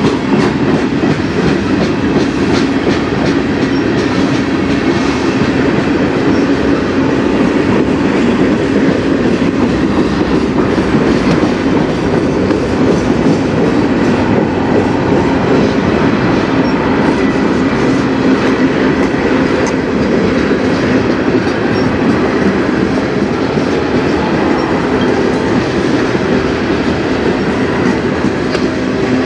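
Freight train cars, mostly loaded tank cars, rolling past on steel rails: a steady, unbroken noise of wheels on track.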